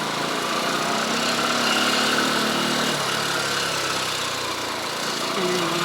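Motorcycle engine running steadily under a broad rush of wind noise.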